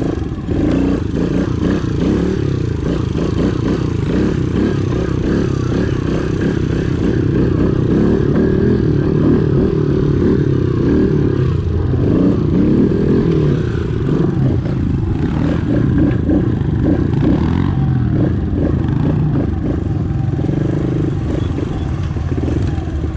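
Several small pit bike engines running together, their pitches wavering and overlapping as they rev and ease off.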